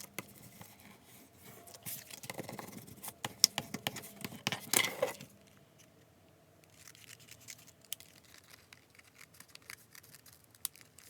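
Paper being cut to trim the edge of a paper-covered envelope: scratchy cutting noises and sharp clicks, loudest in the first five seconds, then fainter scattered ticks.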